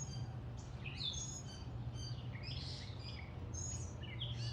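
A songbird singing a run of short, varied chirps and whistles, which the listener takes for a gray catbird mimicking a blue jay. A steady low hum runs underneath.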